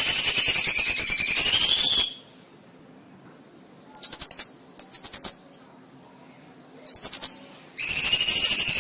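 Cucak cungkok songbird calling: a loud, dense, rapid high-pitched trill that breaks off about two seconds in, then three short bursts, and the full trill starts again near the end.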